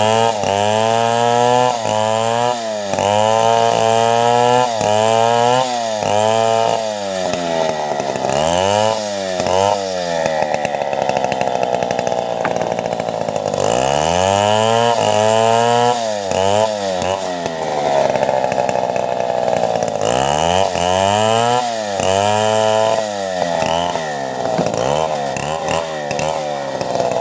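Two-stroke chainsaw ripping timber into boards. Its engine speed rises and falls in quick repeated blips, with spells of a few seconds held at high speed while it cuts.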